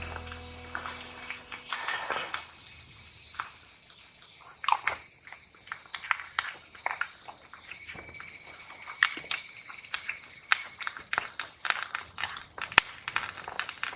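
Steady high-pitched insect chorus, with scattered sharp taps that come more often toward the end.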